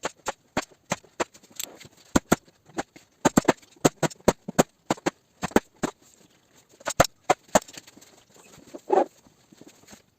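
Paintless dent repair on a Toyota RAV4 tailgate: a run of sharp, irregular taps of a tool on the sheet metal, sometimes several a second, with a duller half-second sound near the end.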